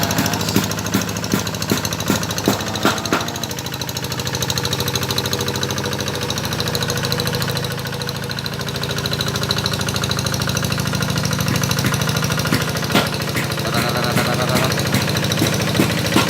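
Paddy-ploughing tractor's engine running steadily under load as it ploughs a rice field, with scattered sharp knocks and clatter in the first few seconds and again about 13 seconds in.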